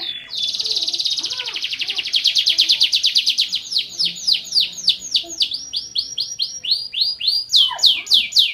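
Canary of the Van Hesterling line singing. It opens with a fast rolling trill of very rapid repeated notes, then about two seconds in changes to a long run of quick falling whistled notes, about three or four a second, with another quick phrase near the end.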